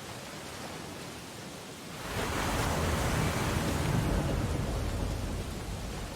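Ocean waves on a beach: over a steady hiss of surf, a wave breaks about two seconds in, swells to its loudest with a deep rumble, and washes back out near the end.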